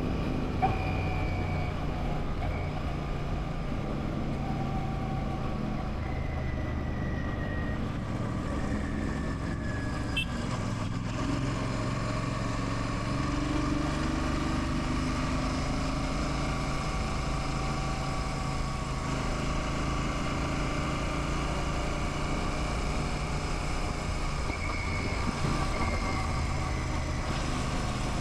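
Royal Enfield Classic 650's parallel-twin engine running steadily as the motorcycle rides along, its pitch drifting gently up and down with the throttle. A couple of brief clicks, near the start and about ten seconds in.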